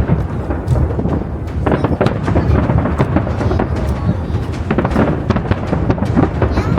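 Fireworks bursting in quick succession: a dense run of booms and crackles over a continuous low rumble.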